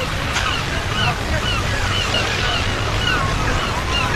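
Steady wash of ocean surf with a flock of birds calling over it: many short, chirping calls, several a second.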